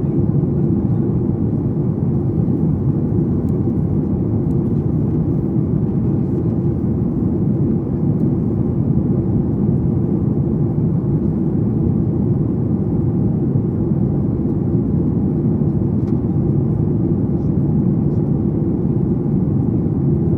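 Steady low rumble of a Boeing 737 MAX 8's cabin noise in flight during descent: airflow over the fuselage and the engines' drone. It is heard from a window seat and holds even throughout.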